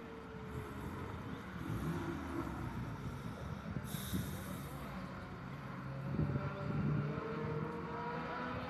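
Car engines running out on the race circuit, unseen, their pitch shifting as they go through corners and gears; near the end one engine rises in pitch as it accelerates. A short hiss comes about four seconds in.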